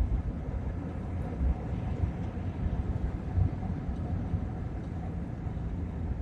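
Car driving at highway speed: a steady low rumble of tyre, road and engine noise.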